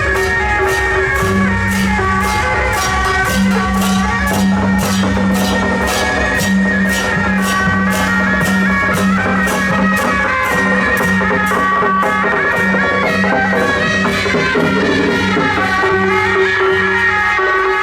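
Beiguan ensemble playing: suona shawms hold a melody over steady cymbal and gong strikes, about two beats a second.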